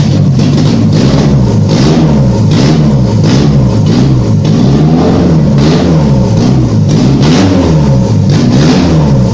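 Nissan SR20 VVL four-cylinder engine with individual throttle bodies, freshly started and being blipped repeatedly. The revs rise and fall about once a second, with loud intake noise on each blip.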